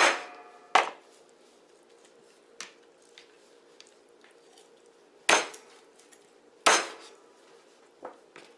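A knife or cleaver chopping a whole raw chicken into pieces on a cutting board: four hard, irregularly spaced chops through meat and bone, each with a short ringing after it, and a few lighter knocks between.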